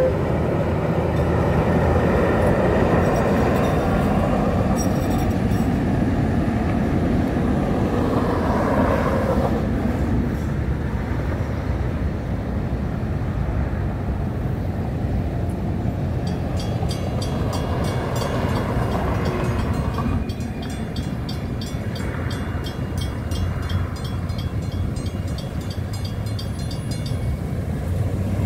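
A train passing a level crossing: a steady loud rumble of wheels on rail that eases gradually over the second half.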